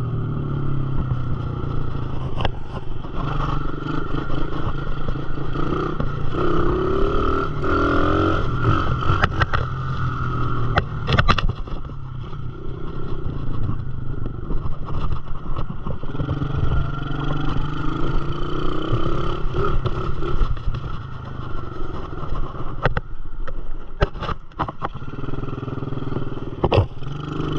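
Dirt bike engine running hard, its pitch repeatedly climbing and dropping as it revs, with scattered knocks and rattles, sharpest about eleven seconds in and again in a cluster near the end.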